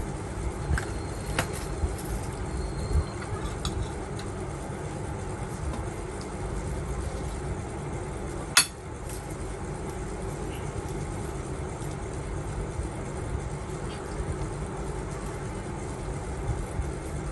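Light clinks and ticks of chopsticks and dishes during a meal, with one sharp click about eight and a half seconds in, over a steady low rumble.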